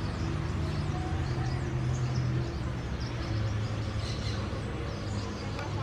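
Several small birds chirping, short high calls overlapping throughout, over a steady low hum.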